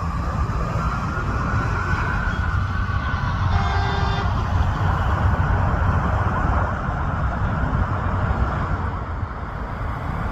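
Emergency vehicle siren wailing in a slow rise and fall, with a short horn blast about four seconds in, over the steady low rumble of idling engines and traffic; the fire engines are arriving at a vehicle fire.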